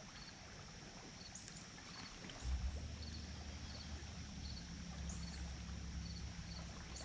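Low steady hum of a boat motor comes in about two and a half seconds in, over faint, evenly repeating insect chirps.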